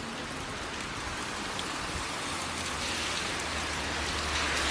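Rain falling on wet paving stones, a steady hiss that grows slightly louder, with a low hum coming in about halfway through.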